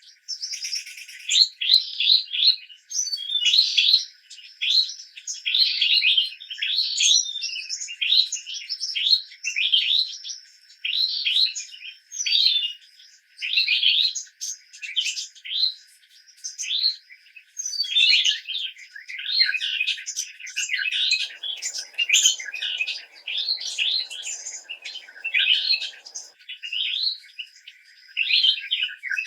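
A bird chirping over and over, short downward-sliding chirps about once a second, with a thin steady high whine underneath.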